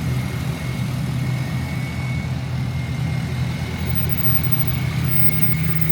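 Truck engine idling steadily, a low even rumble, with a thin steady high whine above it.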